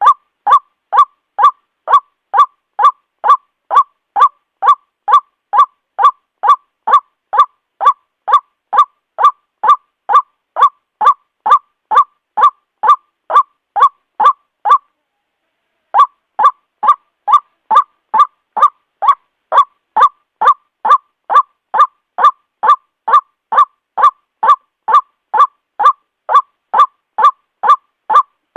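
White-breasted waterhen calling a steady run of harsh, honking 'kwak' notes, about two a second. The run breaks off for about a second midway, then picks up again at the same pace.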